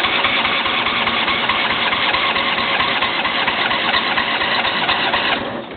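Electric starter cranking a John Deere L120 lawn tractor's Briggs & Stratton engine, a steady churning that fades and stops near the end without the engine catching. The owner puts the failure to start down to a weak battery.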